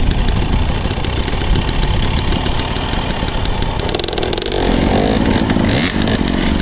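Dirt bike engine running under throttle on the trail, its pitch rising and falling as the throttle is worked about four seconds in.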